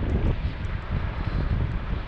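Wind buffeting the microphone: an irregular low rumble with a steady hiss above it.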